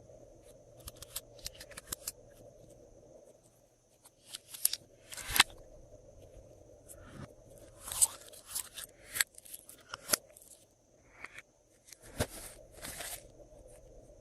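Glossy slime being worked by hand, giving irregular sharp sticky clicks and crackling pops in quick clusters.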